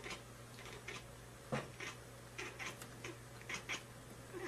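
A cat making a run of short, quiet cries, the loudest about a second and a half in, over a steady low hum.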